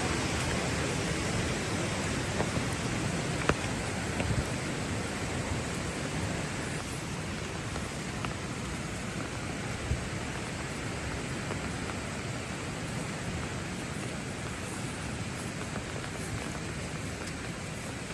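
Steady rainfall, an even hiss of drops falling on hard surfaces, broken by a few sharp single taps in the first half.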